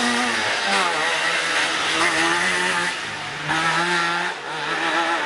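Trabant 601 rally car's two-stroke two-cylinder engine revving hard through a hairpin, its buzzing note holding and stepping in pitch, with brief lifts off the throttle about three and four and a half seconds in.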